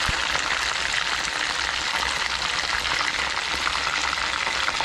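Chicken pieces deep-frying golden brown in hot oil: a steady sizzle with a scatter of small crackling pops.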